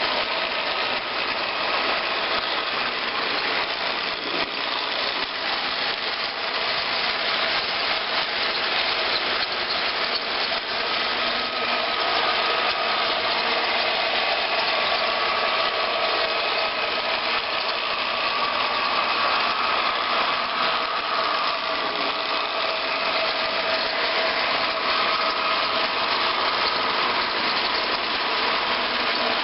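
A train running: a steady engine sound with a few faint steady tones, holding an even level throughout.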